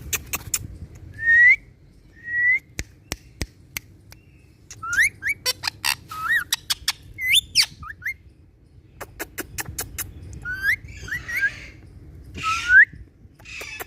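Indian ringneck parakeets whistling short rising notes and giving a few harsher calls near the end, among many sharp clicks.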